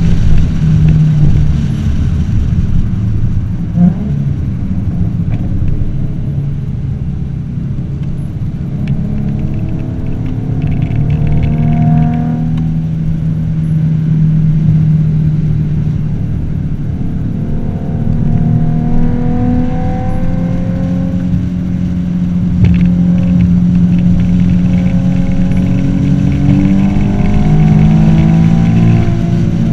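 2014 Ford Mustang's 3.7-litre V6 heard from inside the cabin while lapping a race track. The engine note climbs slowly under acceleration and drops back a few times, about 12 s and 22 s in, as the car shifts or lifts.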